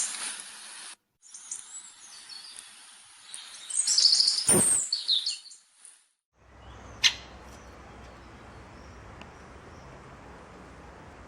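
Small birds chirping and calling in high, quick notes, heard in short clips joined with abrupt cuts. The last part is quieter: a steady low hum with one sharp click.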